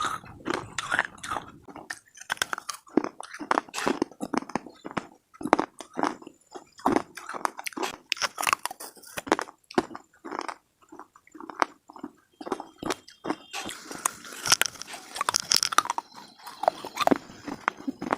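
Hard slate pieces being bitten and chewed: an irregular run of sharp crunches, with a denser stretch of crunching about two-thirds of the way through.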